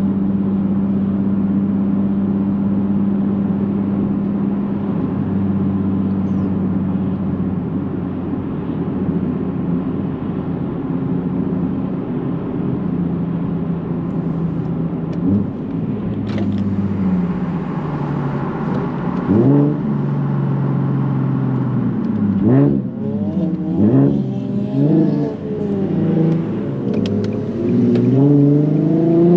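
2009 Nissan 370Z's 3.7-litre V6 through a Tomei titanium catback exhaust, first running at a steady engine note while cruising, then revving in several short rises in pitch, ending with a long rising pull under acceleration.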